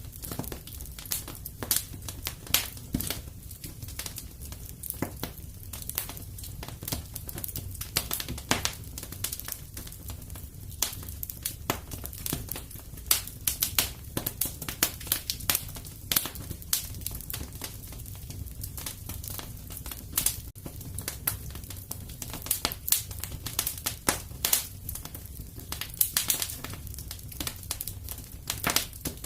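Wood fire burning in a fireplace, with dense, irregular crackles and pops over a low, steady rush.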